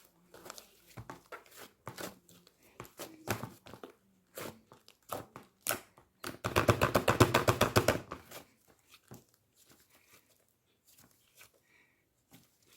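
Cheese slime being squeezed and worked by hand, making scattered sticky clicks and crackles. A little past the middle comes a fast run of clicking pops lasting under two seconds, the loudest part.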